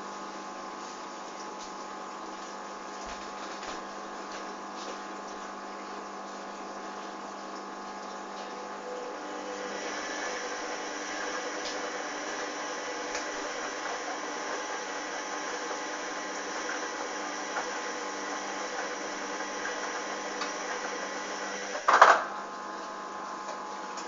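Hoover Dynamic front-loading washing machine running through a sudslock, the pause it makes when it finds too much foam to spin: a steady hum of motor and pump with several held tones. The hum grows louder and busier about ten seconds in, and there is one short loud clunk near the end.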